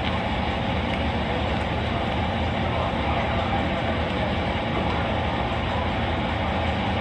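Steady, unbroken hum and hiss of the idling patrol car, heard from inside its cabin.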